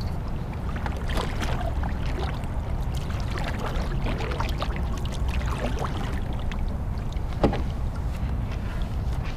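Low steady rumble of wind on the microphone in a kayak, with scattered small knocks and clicks from handling gear. The sharpest click comes about seven and a half seconds in.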